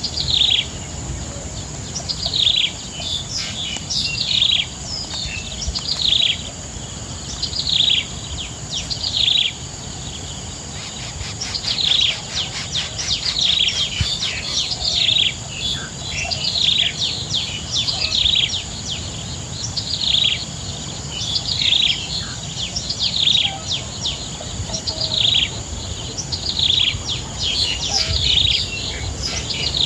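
A bird chirping over and over: short, high notes that slide downward, about one or two a second, some in quick pairs. A steady high-pitched whine runs underneath.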